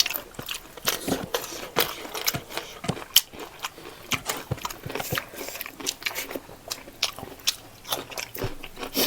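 Close-miked chewing of pork leg in gravy with rice: irregular wet mouth clicks, smacks and crunches, several a second.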